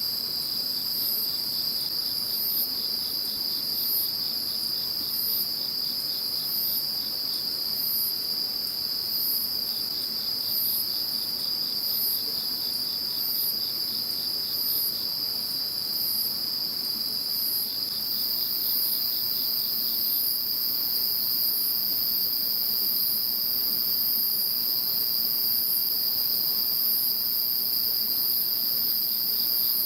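A chorus of several singing insects. One keeps up a continuous high trill, another gives a high chirp about once a second, and a second very high steady trill joins about halfway through.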